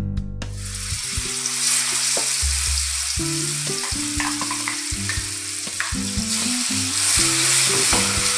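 Ground masala paste sizzling as it drops into hot oil in a kadhai, starting about half a second in and holding steady while it is stirred with a metal ladle.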